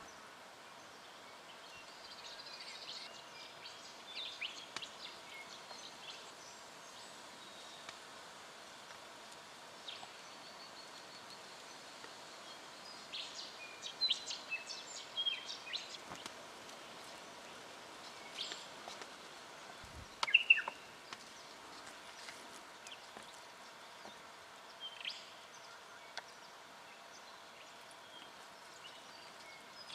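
Striated pardalote calling: scattered short, sharp chirps, loudest about two-thirds of the way through, over a faint steady background hum.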